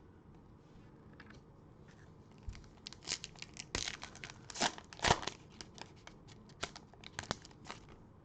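Cellophane wrapper of a basketball card cello pack being torn open and crinkled, heard as a run of short crackles and rips, busiest in the middle.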